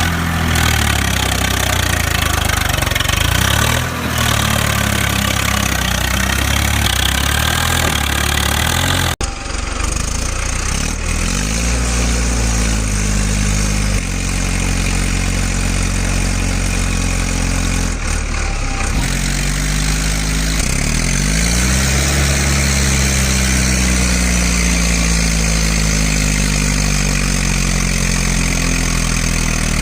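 Tractor engine running hard, its pitch rising and falling again and again as it revs, with a sudden break about a third of the way through.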